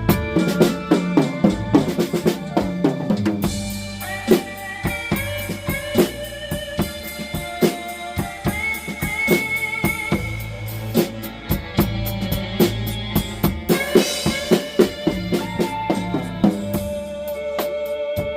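Drum kit played in a blues groove, with kick, snare and rimshot strokes and fills, along with a blues backing track carrying held and bending melody notes.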